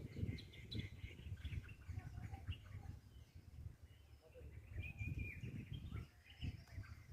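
Small birds chirping and calling, many short high chirps scattered throughout, over an uneven low rumble.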